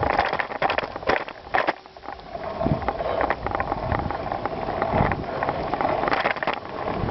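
Bicycle being ridden over rough gravel ground: tyres crunching and the bike rattling and clattering with many small knocks over bumps, with wind buffeting the microphone.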